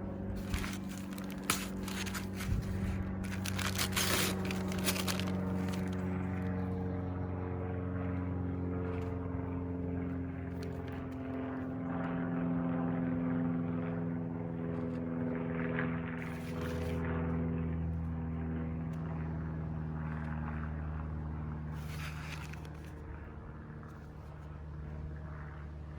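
A steady engine drone whose pitch slowly drifts, like a propeller aircraft passing over. Short scrapes and knocks come in the first few seconds and again around 16 and 22 seconds in.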